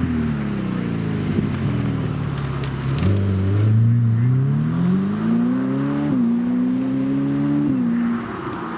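Supercar engine running loud: its pitch falls off for the first few seconds, then it accelerates hard with a rising note, broken twice by quick gear changes.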